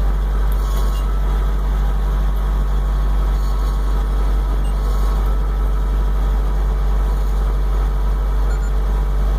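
Tractor engine running steadily, heard from inside the closed cab as a deep, even drone.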